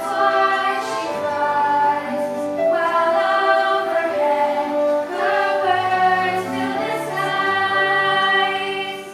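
Singing in a slow song with long held notes, over instrumental accompaniment.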